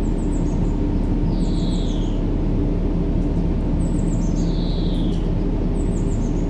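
Steady low rumbling white noise for baby sleep, with a short bird call repeating about every two seconds: a few quick high chirps followed by a falling whistle.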